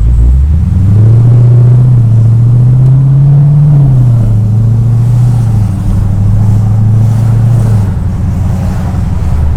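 Jeep SRT's 6.4-litre Hemi V8 through Stainless Works headers and exhaust, driving under load: the exhaust note climbs in pitch for a few seconds, drops back about four seconds in, holds a steady drone, then eases off near the end.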